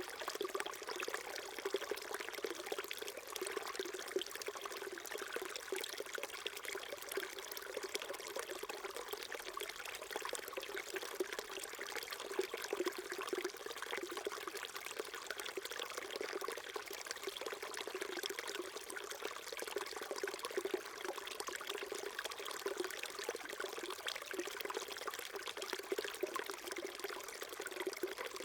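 Small stream flowing and trickling over rocks: a steady babble of water with many small splashes and gurgles, little low rumble.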